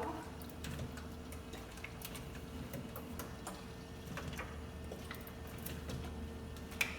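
Drink bottles and cans being handled and set on the shelves of a mini fridge: light irregular clicks and knocks, one sharper knock near the end, over a steady hum.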